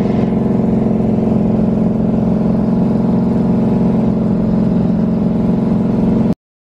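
Car engine and exhaust droning steadily at highway cruise, heard from inside the cabin. It cuts off abruptly near the end.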